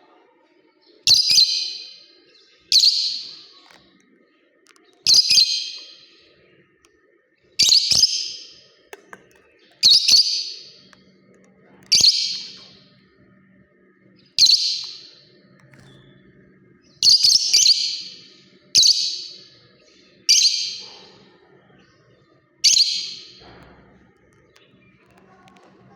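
Lovebird calling: about a dozen loud, high-pitched single calls, each sharp at the start and trailing off, coming every one to two and a half seconds.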